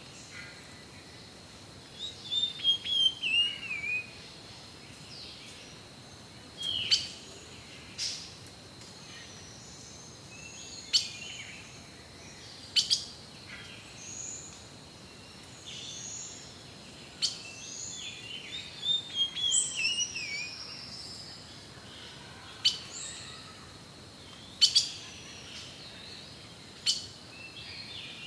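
Several forest birds calling: sharp single chips, short whistles, and a descending warbled phrase that comes twice, about two seconds in and again near the middle. A steady high-pitched tone runs underneath.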